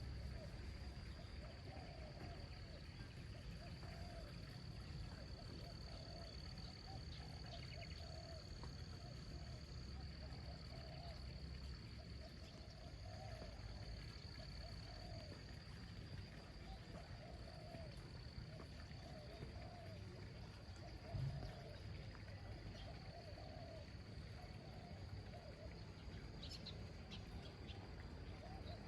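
Natural outdoor ambience: a steady high-pitched insect drone, with a short low warbling call repeated every second or two and a few brief high bird chirps near the end, over a soft low rumble.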